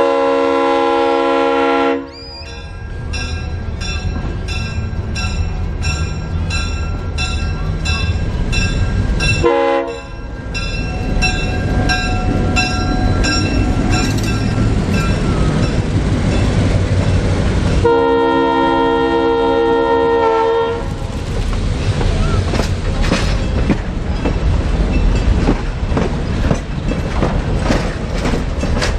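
Union Pacific 942 locomotive running with its train and sounding its multi-note air horn three times: a long blast at the start, a short one about ten seconds in, and a longer one near twenty seconds. Evenly spaced wheel clicks over the rail joints sound between the blasts, over steady rumbling.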